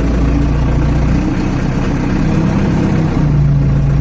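Ford 755 backhoe's engine running steadily, its note shifting a little over a second in and again about three seconds in.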